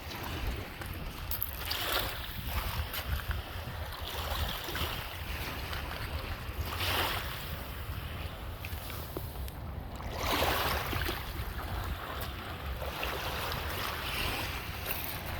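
Lake Michigan waves washing up on the beach, swelling and falling back every few seconds, with a steady low rumble of wind on the microphone.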